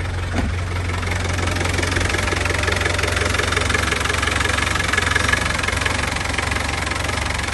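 Land Rover 90's 200Tdi 2.5-litre four-cylinder turbodiesel idling steadily just after a cold start.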